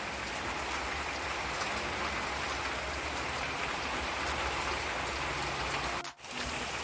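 Heavy rain pouring down, a steady even hiss of falling water with drops spattering on surfaces. It cuts out for a moment about six seconds in.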